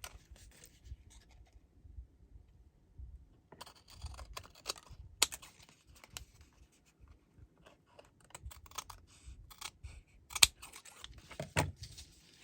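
Scissors snipping through paper strips, trimming the overhanging ends off a paper sunburst, in irregular single snips mixed with paper rustling, with a short pause about two seconds in.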